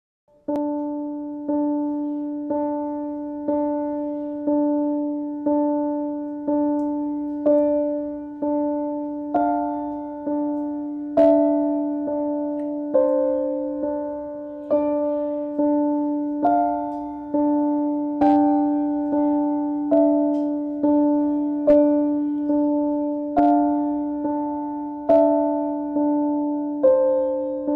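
Slow piano music: a chord struck about once a second over a steady low note, the upper notes shifting every few strikes. It starts about half a second in.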